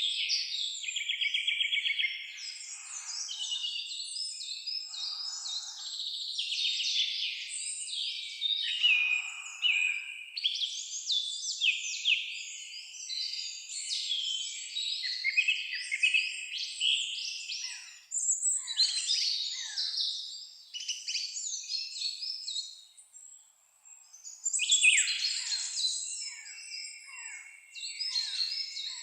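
Several songbirds singing and calling over one another: a dense chorus of chirps, trills and whistles, with a brief lull about four-fifths of the way through.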